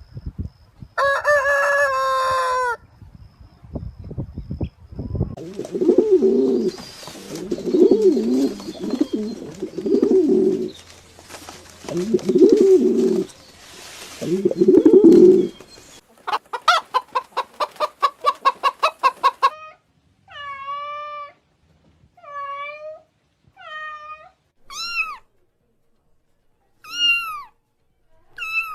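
A string of separate animal calls with chicken-like clucking and calls among them. A long pitched call comes about a second in, then low repeated calls for about ten seconds, a fast rattling call, and several short arched calls near the end.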